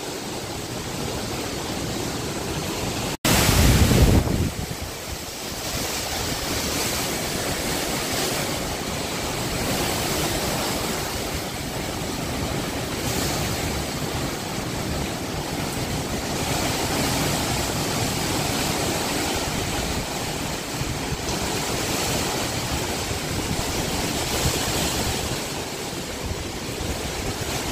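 Hurricane wind blowing in a steady rush that swells and eases in gusts. About three seconds in, the sound cuts out for an instant, then a loud gust buffets the microphone.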